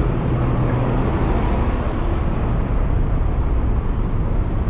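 Steady rush of wind on the microphone mixed with surrounding road traffic, heard while riding an electric bicycle through city traffic.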